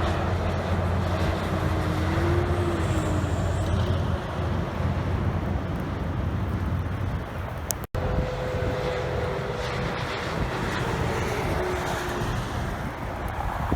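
Road traffic with heavy trucks passing: steady engine and tyre noise with engine tones rising and falling, broken by a sudden brief cut about eight seconds in.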